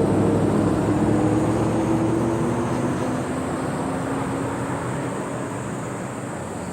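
381-series electric train passing and moving away: rumbling wheel and track noise with a motor hum that sinks slowly in pitch, fading steadily.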